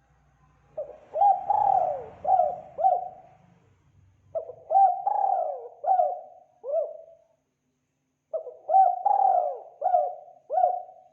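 Spotted dove calling: three phrases of about five rolling coos each, spaced roughly four seconds apart.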